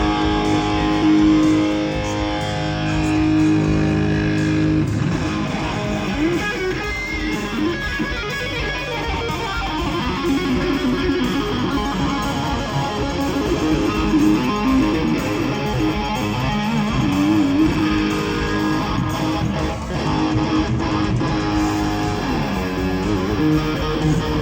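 Live rock music, led by an amplified electric guitar strumming sustained chords and playing wavering lead lines.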